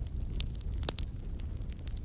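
Wood fire in a fireplace crackling, with a low steady rumble of the flames and irregular sharp pops and snaps, the loudest a little under a second in.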